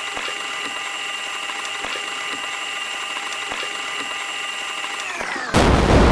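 Washing machine running with a steady motor whine of several high tones and faint ticks. Just after five seconds the whine falls in pitch and a sudden loud rushing noise with a deep rumble starts.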